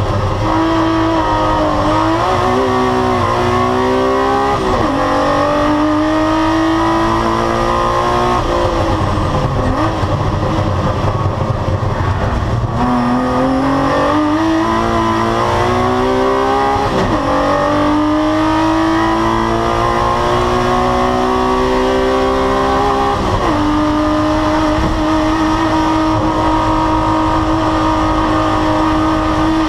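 BMW E36's 2-litre M52 straight-six engine under race load, heard from inside the stripped cabin. It revs up through the gears with several sharp drops in pitch at the upshifts, runs at lower revs for a few seconds around the middle, then holds steady revs over the last few seconds.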